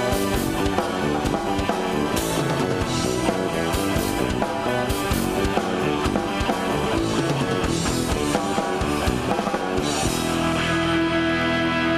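Progressive rock band playing live: electric guitar, bass and drum kit with cymbal hits. About ten seconds in the drums drop out and sustained held chords ring on.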